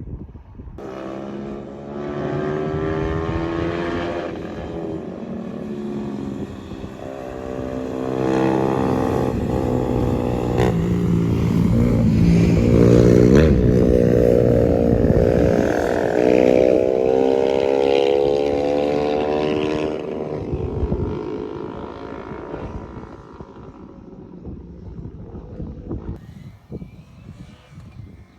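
An engine passing by: it builds over several seconds, is loudest about halfway through with a drop in pitch, then fades away.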